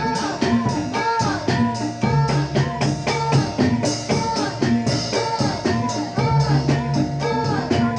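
Live jathilan dance music: struck percussion keeping a fast, steady beat under a repeating melodic line.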